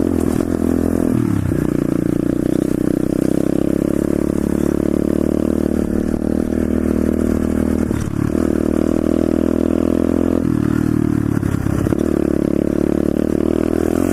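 Pit bike engine running steadily under throttle while riding. The throttle is briefly let off about a second in and again around eight seconds in, and the engine note changes around ten seconds in.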